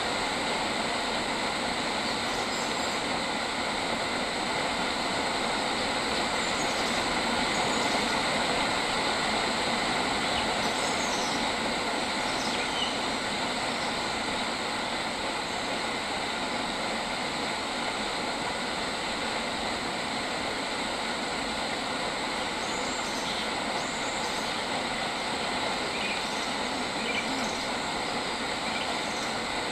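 Steady, unbroken chorus of insects such as cicadas, with a few short bird chirps now and then.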